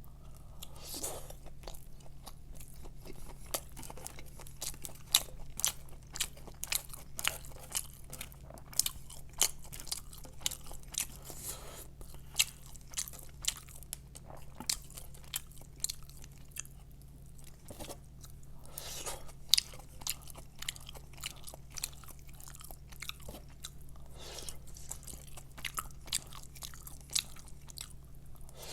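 Crispy fried chicken being bitten and chewed close to the microphone: many short crunches through the whole stretch, over a low steady hum.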